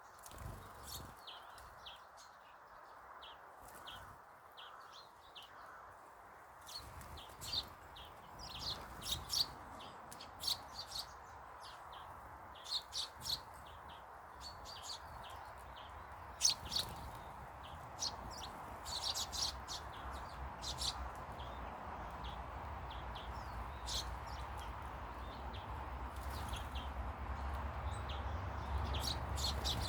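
Small garden birds chirping: many short, quick chirps, some in rapid clusters. A steady low rumble underneath grows louder toward the end.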